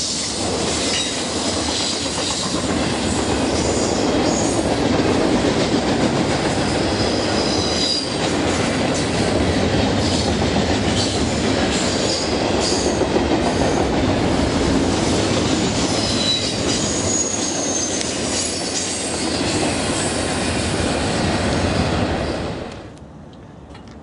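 A train rolling past at close range, its wheels giving short high-pitched squeals over the steady rumble and clatter of wheels on rail. The sound drops away suddenly near the end.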